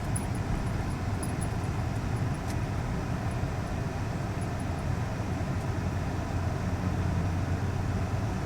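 Steady low rumble of engine and road noise inside a vehicle's cab as it drives slowly through deep snow in a blizzard.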